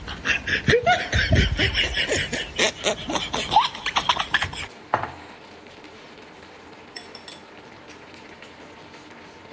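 A person's short rising and falling vocal sounds mixed with dense wet clicking, which cut off abruptly about five seconds in. After that it is quiet apart from a single click.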